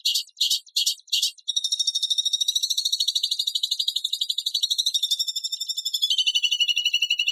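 A songbird's harsh, rapid-fire notes of the kind used as song material for training white-rumped shamas. It opens with a few short separate bursts, then about one and a half seconds in runs into a long, fast, high trill that drops a little lower about six seconds in.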